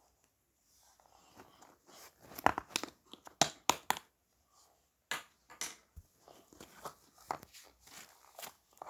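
Irregular crinkling and crackling clicks, a handling noise like something being crumpled or torn, loudest about two to four seconds in.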